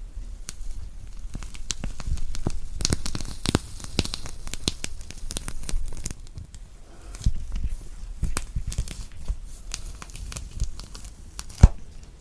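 A thick orange peel being torn off by hand: crackling, tearing rips of the rind with many small clicks, and one sharp snap near the end.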